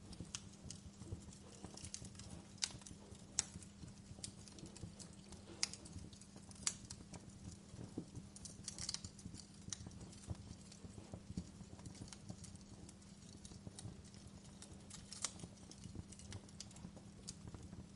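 Wood fire in a fireplace crackling: irregular sharp pops and snaps over a low steady hum, with a few louder pops about three to seven seconds in.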